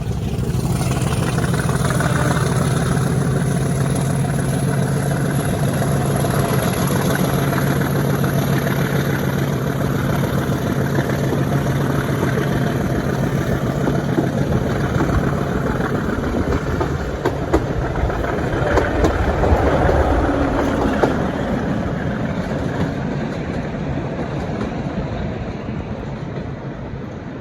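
Diesel train running with a steady low engine drone and a faint high whine that rises in pitch. Past the middle come a run of sharp clicks and knocks from wheels on the track, and the sound then fades slowly away.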